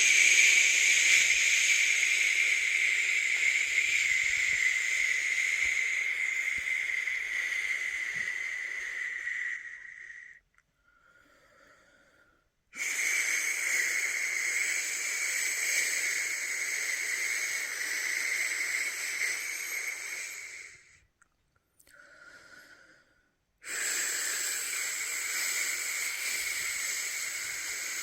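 A person making long, drawn-out 'shhh' shushing sounds to lull a newborn to sleep. Each shush lasts about eight to ten seconds. The first fades out about ten seconds in, and short pauses for breath come before new shushes start around thirteen and twenty-four seconds.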